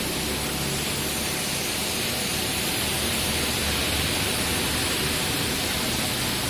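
Heavy rain falling: a steady, even hiss with no let-up.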